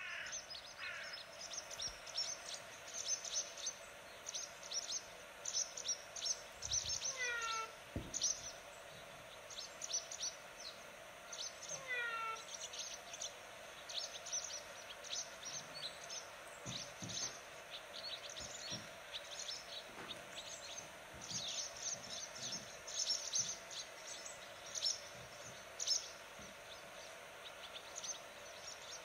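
Small birds chirping: many quick high chirps throughout, with a falling run of notes twice, at about 7 and 12 seconds in, over steady background noise.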